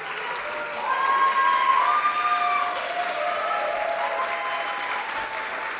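Audience applauding after a performance, with a few held calls over the clapping between about one and four seconds in.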